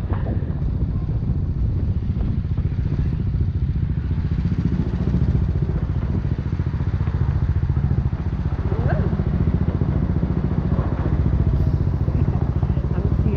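BMW G 310 R's single-cylinder engine running steadily through an Akrapovic racing exhaust, heard from the pillion seat, with a dense low pulsing exhaust note.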